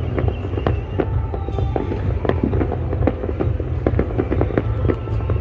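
Many fireworks and firecrackers going off at once: an irregular run of sharp bangs and cracks over a constant low rumble.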